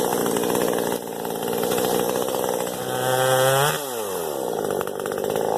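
Hoteche chainsaw running, its engine held high, then revving up about three seconds in and dropping off sharply just before four seconds.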